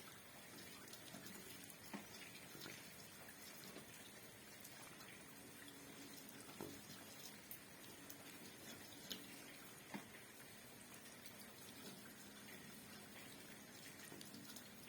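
Faint light rain: a soft steady hiss with a handful of single drops dripping sharply through it.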